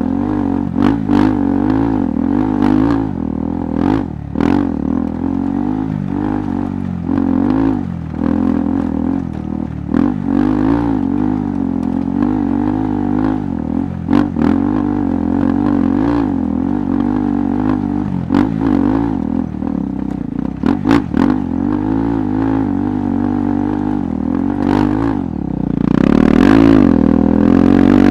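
KTM 390 Adventure's single-cylinder engine running at low, unsteady revs on an off-road trail, with frequent sharp knocks and clatter. Near the end the revs climb and it gets louder.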